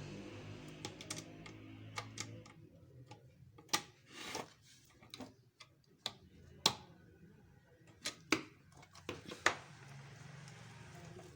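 Scattered sharp clicks and knocks at uneven spacing, typical of tools and parts being handled during a compressor repair; the loudest come about four, seven and nine and a half seconds in.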